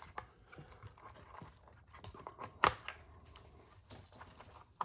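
Small clicks and rattles of RC car parts being handled and fitted together, with one louder sharp click about two-thirds of a second before the midpoint.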